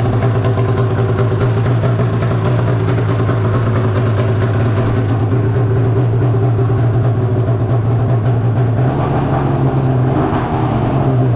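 Arctic Cat M8 snowmobile's two-stroke engine running steadily after the rebuild, picking up slightly about nine seconds in.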